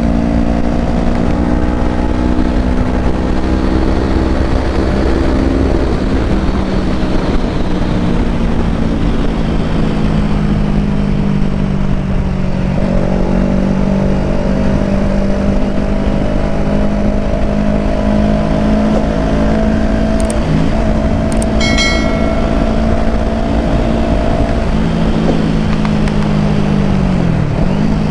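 Kawasaki Ninja 250 motorcycle engine running at fairly steady revs while riding, with wind rumble on the microphone. The engine pitch dips and picks up again near the end. A brief high-pitched tone sounds about two-thirds of the way in.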